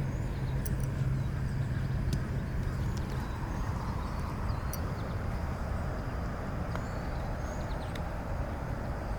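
Open-air ambience: a steady low rumble of wind or distant traffic, with a steady low hum that fades out about three seconds in and a few faint high chirps.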